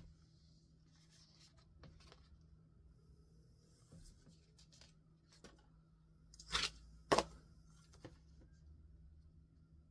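Sticker sheet and paper handled on a journal page: soft rustles and light taps, then two sharp, crisp paper sounds about half a second apart around two-thirds of the way in.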